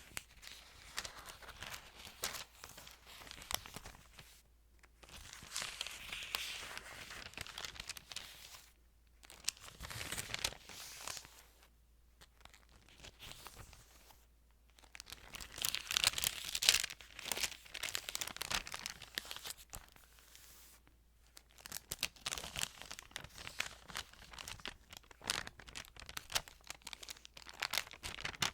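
Thin Bible pages being handled and turned close to the microphone: bursts of crinkling, crackling paper with short pauses between them.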